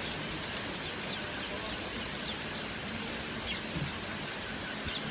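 Steady rushing noise of rain and wind in a storm, with a few short high chirps scattered through it.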